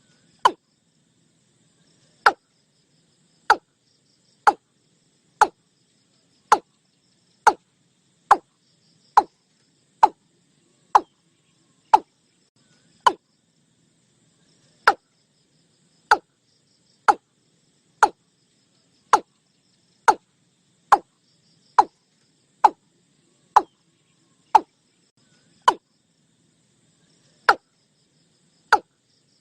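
Watercock calling: a long series of short, hollow, downward-sweeping notes, about one a second with a few longer gaps. A faint high insect hiss lies underneath.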